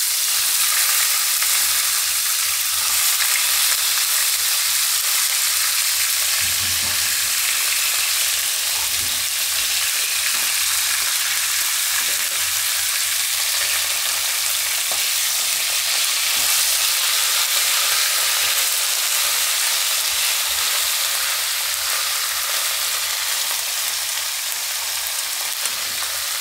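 Raw cauliflower florets frying in hot oil in a wok-style kadai: a steady sizzle, with a few faint knocks.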